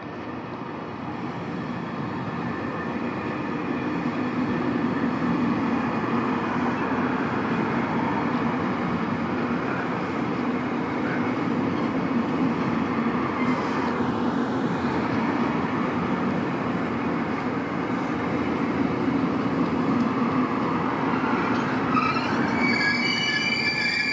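A limited express train running into the station, its rumble of wheels on rail building over the first few seconds and then holding steady. Near the end, high squealing tones set in as it brakes for its stop.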